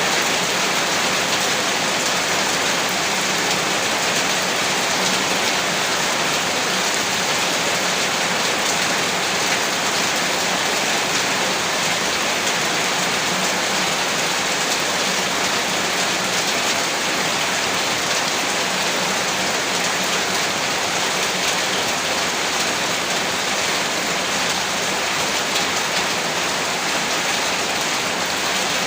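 Heavy rain falling steadily, a dense even hiss of drops with fine pattering detail and no letup.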